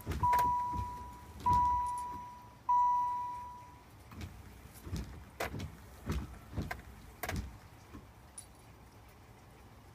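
A car's electronic warning chime dings about four times, roughly one ding every 1.2 s, each fading away. It is followed by a series of light clicks and knocks from keys and controls being handled in the car.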